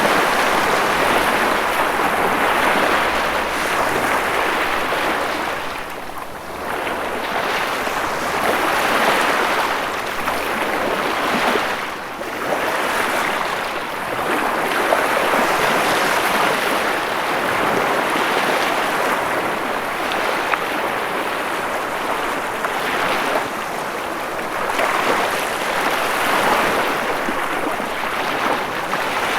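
Ocean waves breaking on a shore, the surf swelling and easing every few seconds in a continuous rush of water.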